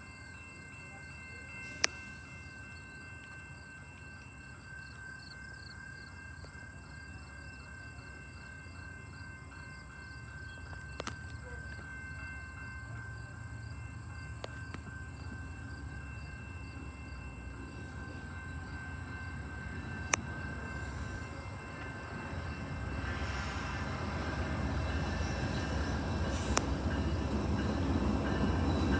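VIA Rail passenger train hauled by a P42DC diesel locomotive approaching, its rumble and rail noise growing steadily louder and building strongly over the last several seconds.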